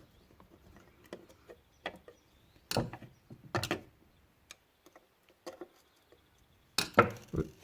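Small Phillips screwdriver and tiny screws working on a plastic action-camera housing: scattered light clicks and taps, with sharper knocks about three seconds in and again near the end.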